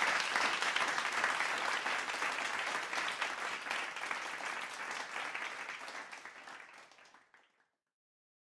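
Applause: dense clapping that fades out gradually and dies away about seven seconds in.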